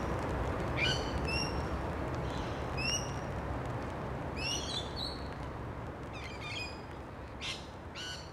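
Birds calling: short rising chirps every second or two, with harsher, chattering calls near the end, over a steady background rush.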